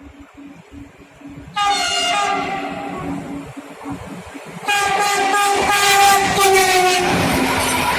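Freight train locomotive horn: a blast about a second and a half in, then a louder blast of about two seconds near the middle. After it comes the loud rushing rumble of the train passing close by.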